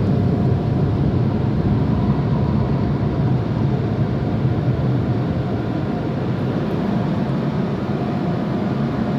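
Steady mechanical noise of an automatic tunnel car wash, muffled by being heard from inside the car's cabin: a low, even rumble and rush with a faint steady hum on top.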